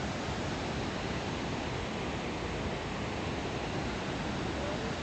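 Kegon Falls, a tall waterfall, making a steady, unbroken rush of falling water.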